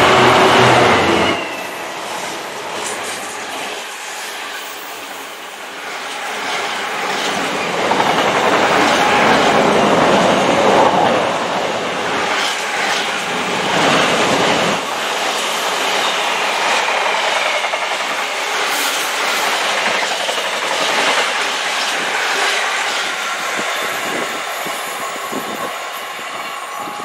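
Container freight train passing at speed. The diesel locomotive goes by in the first second or so, then the flat wagons rattle past with a steady clickety-clack of wheels on the rails, fading slightly near the end as the train draws away.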